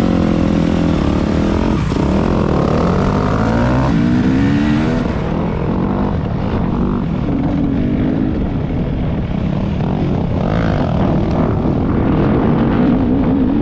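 Dirt bike engine running hard while being ridden, its pitch climbing and falling as the throttle is worked and it shifts, climbing plainly a couple of seconds in.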